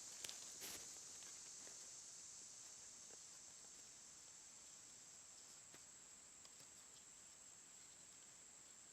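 Faint, steady high-pitched insect chorus, with two soft clicks in the first second.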